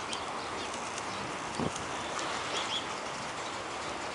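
Outdoor ambience with small birds chirping faintly, two short high chirps coming close together about two and a half seconds in. A single dull thump about a second and a half in is the loudest sound.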